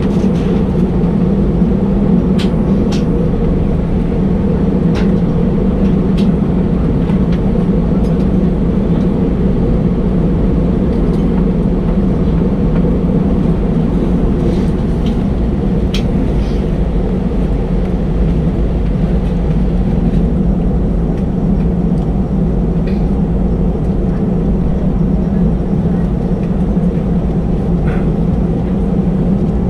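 Airbus A320 cabin noise heard from a passenger seat: the CFM56 engines running at low power with a steady hum and a deep rumble. Scattered short clicks and rattles come through now and then, typical of the aircraft taxiing.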